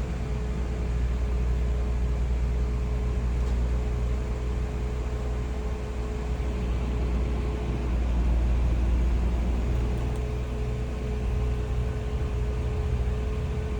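Audi B5 RS4's 2.7-litre twin-turbo V6 idling steadily just after a cold start. A thin steady whine runs over the idle and drops out for a moment about two-thirds of the way through.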